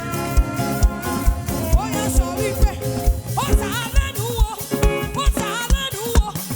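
Live African gospel praise music: a band with a steady kick drum about two beats a second under held keyboard chords, and a singer sliding through wordless vocal runs.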